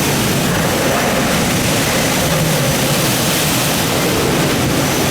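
Typhoon wind blowing strongly and steadily: a loud, even roar with no lulls.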